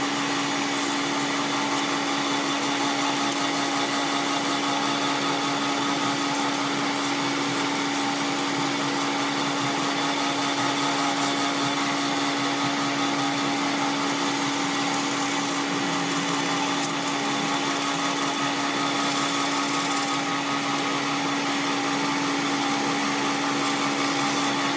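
Electric motor of a workshop power tool running steadily with a constant hum. Bursts of brighter hiss come twice around the middle.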